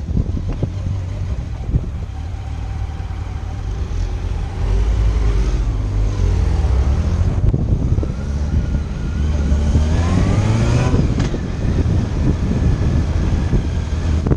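Motorcycle engine running under way, with wind buffeting the microphone. The engine note rises in pitch as it accelerates, a little past a quarter of the way in and again past halfway, then drops suddenly about three-quarters of the way in.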